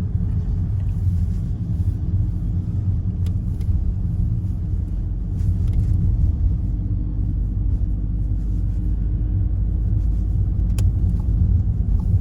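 Steady low rumble of a car driving, heard from inside the cabin, with a faint constant hum and a few light clicks.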